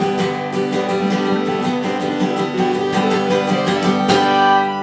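Acoustic guitar strumming the song's closing chords in a quick, even rhythm. A last strong strum about four seconds in is left ringing.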